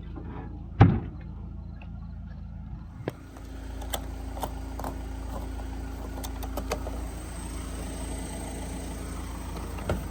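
Steady low rumble of a vehicle engine and road running, with a few light clicks. The rumble changes character about three seconds in.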